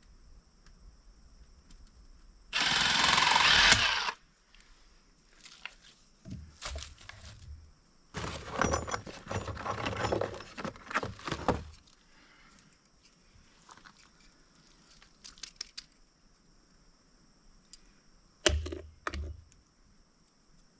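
A power tool runs in one short, loud burst about two and a half seconds in, then irregular clicking, scraping and rattling of hand work on the water-line fittings, with a cluster of sharp clicks near the end.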